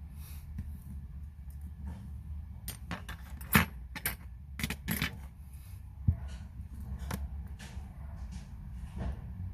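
Sharp, irregular light metallic clicks and taps of small watchmaking tools and watch parts being handled on a workbench, over a steady low hum.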